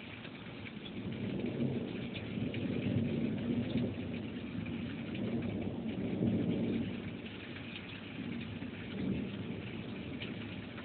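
Rain falling steadily with thunder rolling through it: a low rumble builds about a second in, swells twice and eases off after about seven seconds, with a smaller rumble near the end.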